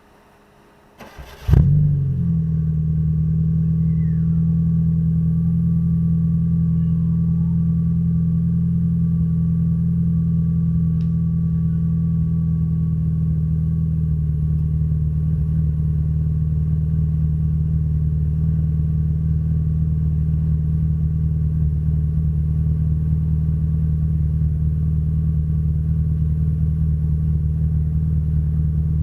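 Proton Satria 1.3-litre four-cylinder engine with a straight-pipe exhaust starting: it catches with a sharp burst about a second and a half in, then settles into a steady, even idle.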